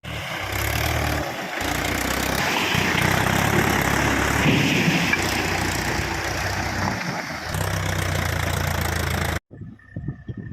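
Mahindra tractor's diesel engine running steadily, a little louder in the middle. The sound breaks off abruptly near the end, leaving a much fainter low throbbing.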